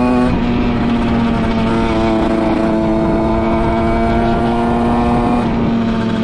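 Derbi Senda motorcycle engine running steadily under way, its pitch stepping down slightly just after the start and again near the end. The rider calls it totally flat with no power at all, blaming the carburettor tuning.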